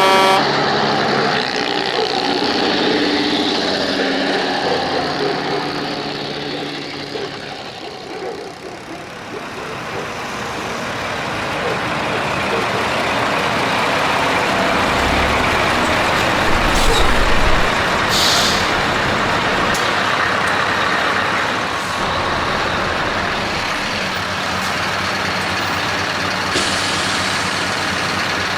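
Heavy truck engines running and passing in traffic, with a short air-brake hiss about two-thirds of the way through.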